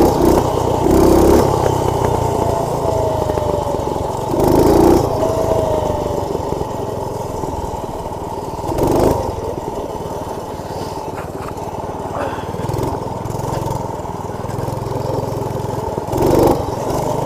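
Minibike's Predator single-cylinder engine running steadily while being ridden, heard muffled from a mic inside the rider's helmet, with a few swells of wind or throttle.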